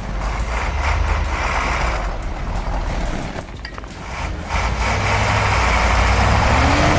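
Heavy truck engine running under load. It eases off for about a second midway, then picks up again louder.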